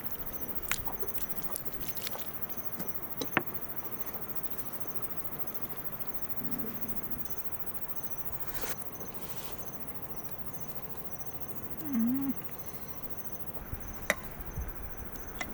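Crickets chirping in steady, evenly repeated pulses, with scattered light clicks and taps. About twelve seconds in there is one short, low sound that dips and rises in pitch.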